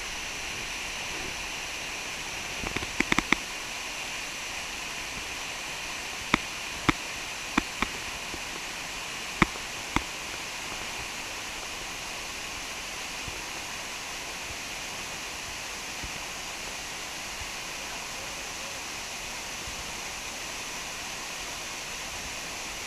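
Steady rush of a waterfall pouring into a canyon pool, with several sharp clicks or knocks scattered through the first ten seconds.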